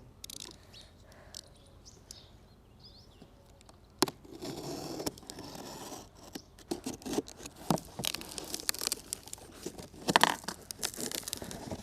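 Packaging being handled and opened: crinkling and tearing with scattered sharp clicks and snaps, a loud snap about four seconds in.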